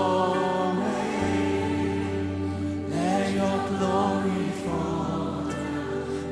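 Contemporary worship music: a band plays held bass and chord notes while voices sing a slow worship song.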